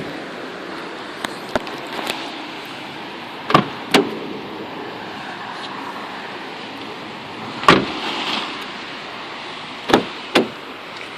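Car body sounds from a 2007 Subaru Impreza saloon: the boot lid and doors being shut and opened, heard as a string of sharp knocks and clicks over a steady hiss. There is a pair of knocks a few seconds in, a heavier slam past the middle, and two more knocks near the end.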